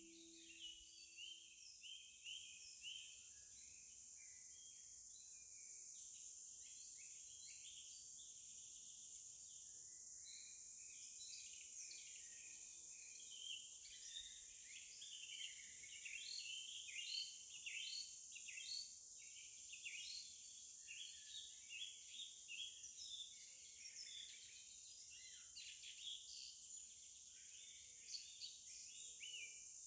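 Faint nature ambience: many small birds chirping in quick, overlapping calls over a steady high-pitched hiss.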